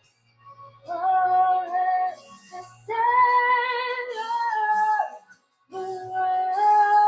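Music from a worship song: a high, wordless vocal line, sung or synthesised, holding long notes in three phrases with short breaks between them.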